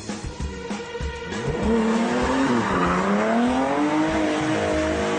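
Volkswagen VR6 engine: an uneven pulsing note at first, then from about two seconds in the engine pulls under load, its pitch dipping briefly and then climbing steadily as the car accelerates.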